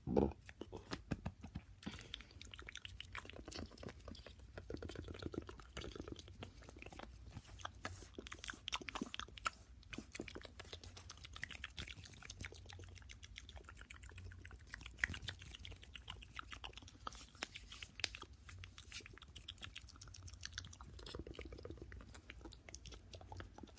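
ASMR mouth sounds made close to the microphone, fast and aggressive: a dense run of quick wet clicks and smacks, with one louder pop right at the start.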